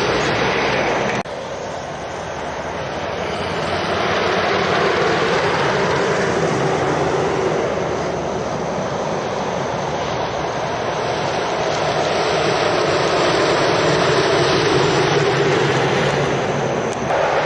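Heavy lorry traffic passing on a road: a steady mix of diesel engine and tyre noise. It cuts off abruptly about a second in, then builds again over the next few seconds as more trucks come by.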